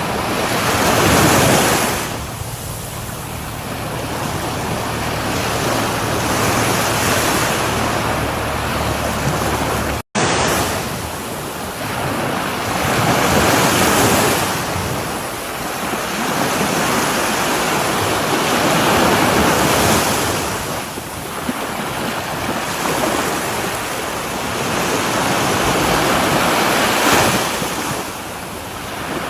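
Sea waves breaking on a shore, the surf swelling and falling back every few seconds. There is a split-second dropout to silence about ten seconds in.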